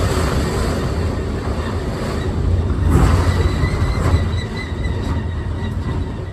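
Strong gusty wind blowing over the microphone: a loud, rumbling rush that swells about three seconds in, with a faint high whistle partway through.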